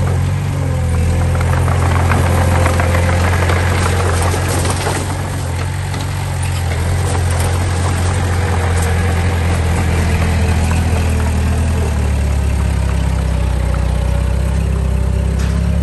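Diesel engine of an earthmoving machine running steadily, with scattered metallic clanks and rattles; the engine note drops a little about twelve seconds in.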